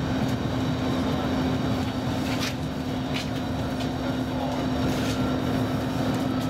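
Cabin running noise of a Roslagsbanan X10p narrow-gauge electric train at speed: a steady low rumble with a constant hum and a few faint ticks.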